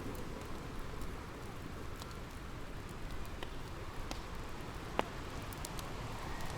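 Bonfire crackling, with scattered sharp pops and one louder snap about five seconds in, over a steady low rumble.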